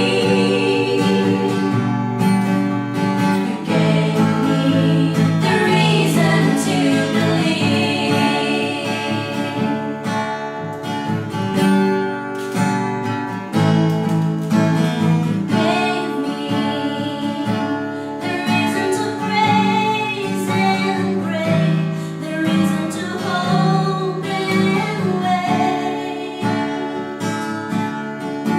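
A song sung to a strummed acoustic guitar.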